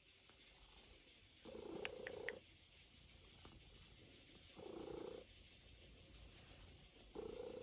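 Norwegian Forest Cat purring softly, swelling and fading with each breath, three swells a few seconds apart.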